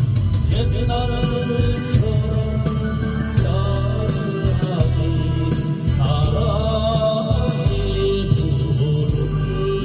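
Karaoke backing track for a Korean trot song playing an instrumental passage: a steady bass and beat under a melody line.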